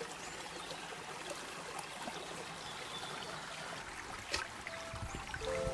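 Stream water running and trickling steadily, with a single knock about four seconds in. Music comes in near the end.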